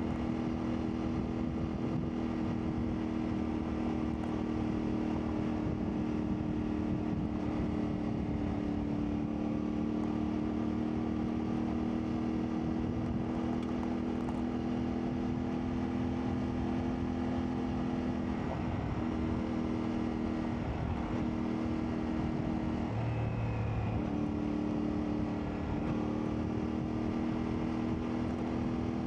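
CFMoto 450MT's parallel-twin engine running while the bike is ridden, the engine note holding steady for a long stretch, then dipping briefly three or four times in the second half as the throttle changes.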